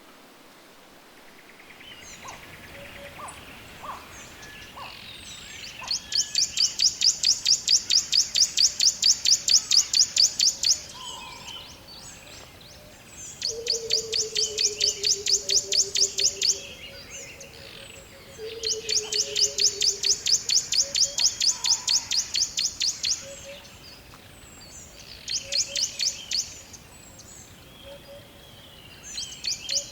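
Forest birdsong: a bird repeats long, fast, high-pitched pulsed trills a few seconds each, with a lower falling whistle twice in the middle and faint scattered chirps around them.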